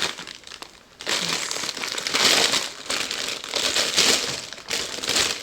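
Packaging crinkling and rustling in irregular handfuls as candle-making supplies are handled. It is faint for the first second, then louder.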